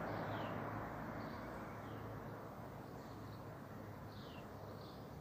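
A small bird gives short falling chirps about every second over a rush of road noise that slowly fades as a vehicle moves off.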